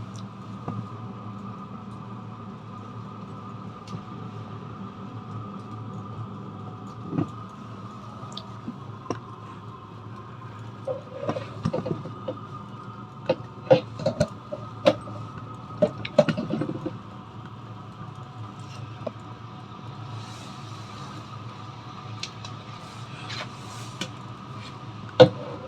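Chinese diesel parking heater running with a steady hum. Clicks and knocks come in a cluster a little before the middle, and one sharp knock comes near the end.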